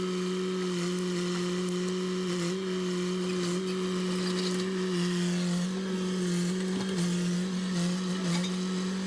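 An engine running steadily at constant speed, giving a strong even hum that sags briefly a few times.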